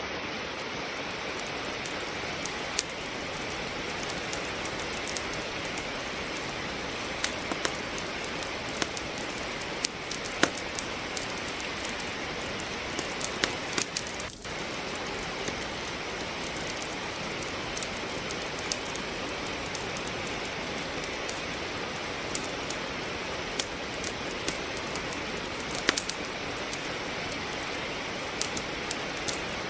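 Steady rain hiss with a wood fire crackling, sharp pops scattered irregularly throughout. The sound dips briefly about halfway through.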